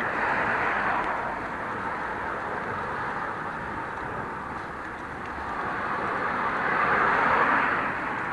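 Road traffic passing close by: the tyre and engine noise of cars swells as one goes past near the start and another nears the end.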